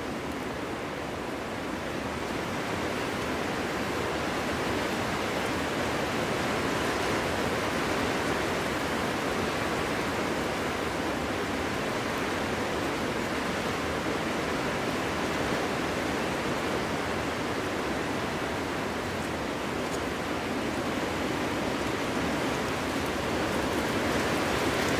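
Wind blowing steadily through a forest, an even rushing noise with no gusts or breaks, swelling slightly a few seconds in and again near the end.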